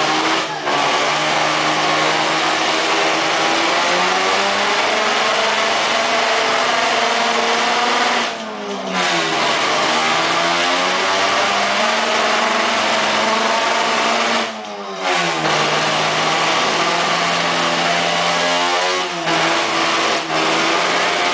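Car engine revved hard and held at high rpm, with the revs dropping briefly and climbing back several times.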